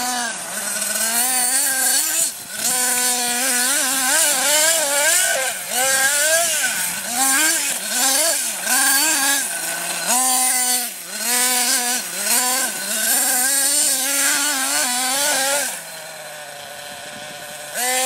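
Small nitro engine of an RC monster truck, revved up and down again and again as it is driven, its pitch rising and falling every second or so. Near the end it drops to a quieter, steady idle.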